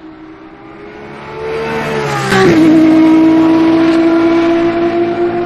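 Lamborghini Essenza SCV12's naturally aspirated V12 at high revs, growing louder over the first two seconds. Its pitch drops sharply as it reaches full loudness, then it holds a loud, steady high note.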